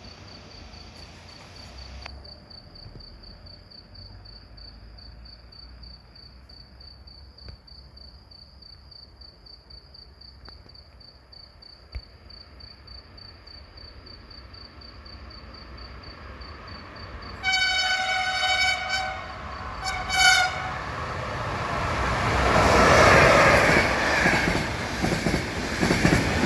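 A high, steadily pulsing warning tone sounds for the first two-thirds, then an E401 electric locomotive gives two blasts on its horn, a long one and a short one. An Intercity train then rushes past at speed, the noise swelling loudly with wheels clattering over the rails.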